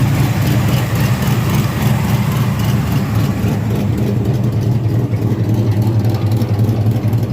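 Rebuilt 355 small-block V8 with a new cam idling steadily and loudly.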